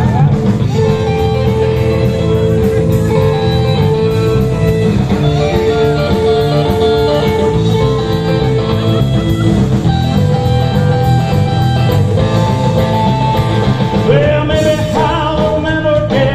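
Rock and roll band playing an instrumental break: lead guitar holding long notes over bass and drums.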